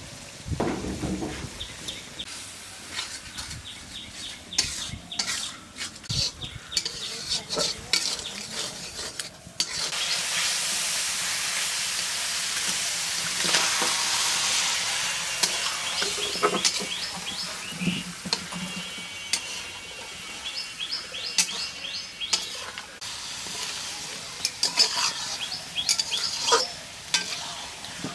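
Food frying in hot oil in a cooking pot while a spoon stirs, scraping and knocking against the pot. The sizzle turns suddenly louder about ten seconds in, then slowly eases.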